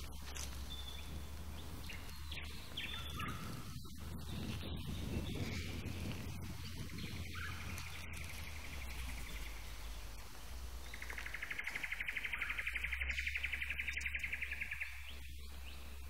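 Bush ambience with birds calling: a bird's fast, even trill of repeated notes, faintly about seven seconds in and louder from about eleven to fifteen seconds.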